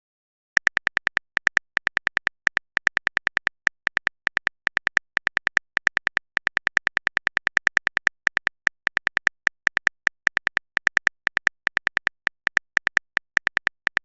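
Rapid keyboard typing clicks, a phone-keyboard tapping sound effect, in a long even run of about six to eight taps a second with brief pauses, starting about half a second in.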